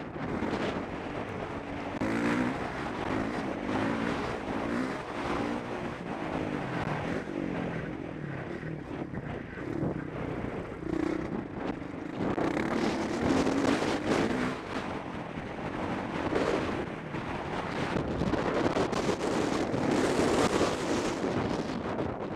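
Motocross bike engine revving up and falling back again and again as the rider rides the track, with wind rushing over the microphone.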